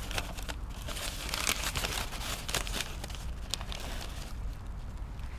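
A freshly lit fire of newspaper and firewood in a mangal grill crackling, with quick irregular pops and crinkles that thin out about four seconds in.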